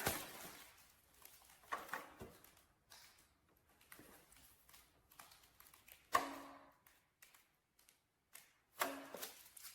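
Faint handling knocks and taps in a quiet room, a few separate ones spread out, the loudest about six seconds in and another near the end.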